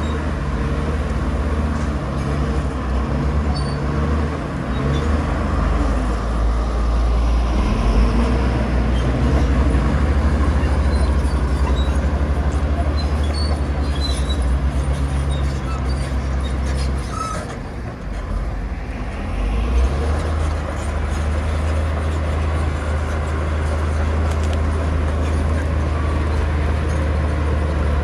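Komatsu crawler bulldozer's diesel engine running steadily under load, with a deep hum. The engine note drops briefly a little past halfway, then picks back up.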